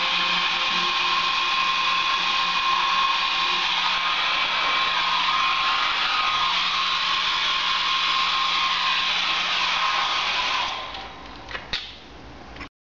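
Hair dryer blowing at full power with a steady motor whine, then switched off near the end and spinning down, followed by two sharp clicks.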